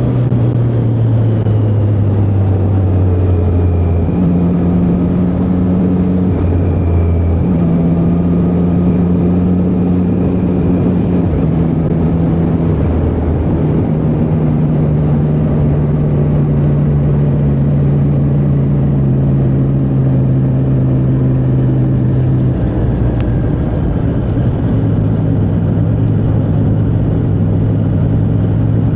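Triumph Street Triple 765R's 765 cc inline three-cylinder engine running under way on the road. Its note holds steady revs that step up and down several times, sitting lowest in the first few seconds and dropping again about three-quarters of the way through.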